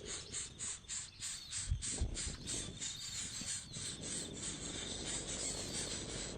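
Rapid high-pitched chirping repeating about four times a second, with a few low thumps about two seconds in.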